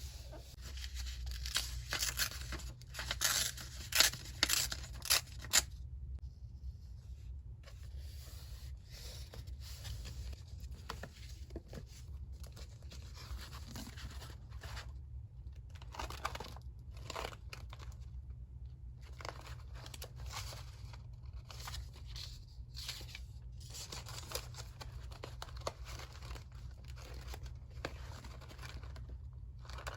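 Paper being torn by hand, a run of sharp tearing strokes in the first few seconds, followed by quieter rustling and scraping of paper being handled, over a steady low hum.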